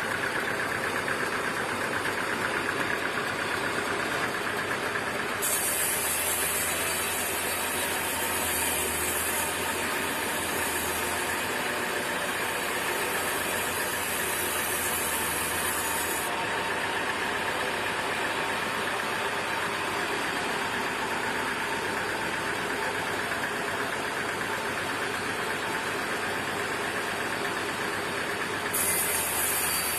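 Sawmill machinery running steadily, with a high hiss and a low hum that come in suddenly about five seconds in, stop around sixteen seconds, and return near the end.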